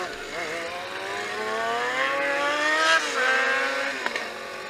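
Dirt bike engine accelerating hard. Its pitch climbs for about three seconds, drops sharply at a gear change, then holds steadier as it pulls on in the next gear.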